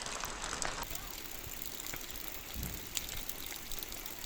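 Heavy rain falling, a steady hiss of water dotted with the ticks of individual drops and trickling runoff. The sound changes abruptly about a second in.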